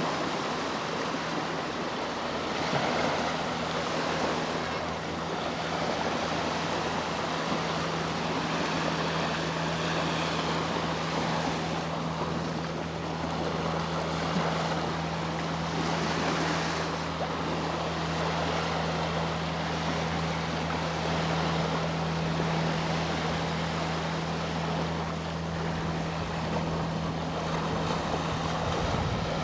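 Sea waves washing in slow surges, with the steady low drone of a boat engine running underneath.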